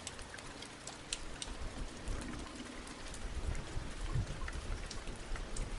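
Rain falling steadily: an even hiss with many short, sharp ticks of single drops striking close by.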